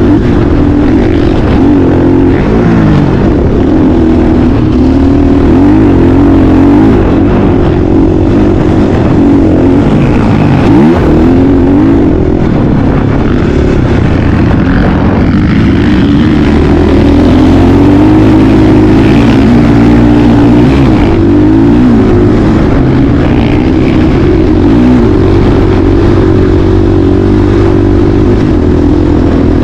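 Motocross dirt bike engine running loud, its pitch rising and falling without a break as the throttle is opened and closed.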